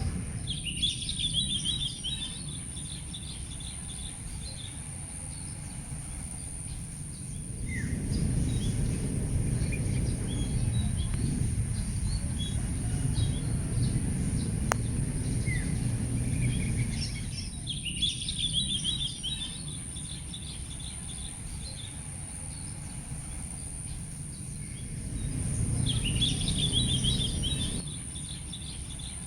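A songbird sings three short, twittering phrases several seconds apart: one at the start, one about halfway and one near the end. A low outdoor rumble swells and fades beneath them, and a thin, steady high-pitched whine runs throughout.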